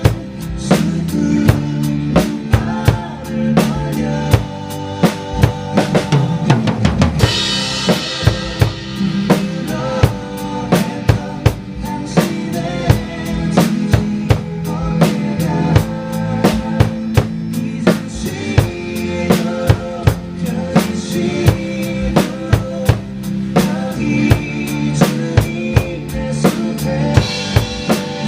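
Acoustic drum kit played in a steady groove of bass drum and snare hits over a backing track. A cymbal crash about seven seconds in and another near the end.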